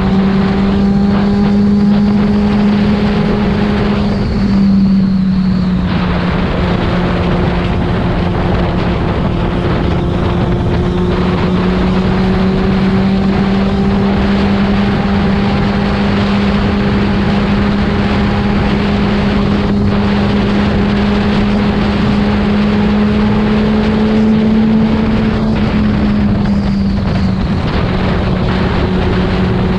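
Yamaha FZ6's inline-four engine through a LeoVince aftermarket exhaust, running at a steady pitch while riding, with wind noise. The tone drops briefly about five seconds in, then holds steady again.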